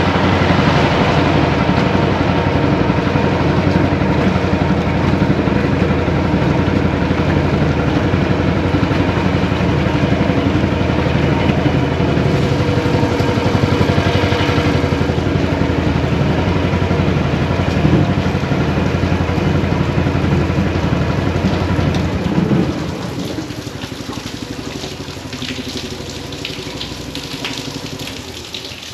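Small gasoline engine of a motorized kayak running steadily under way, with wind and water noise. About 22 seconds in it drops back and quietens, and splashing water comes through near the end.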